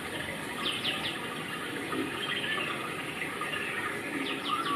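A small bird calling in quick runs of three falling chirps, about a second in and again near the end, over a steady rushing background noise.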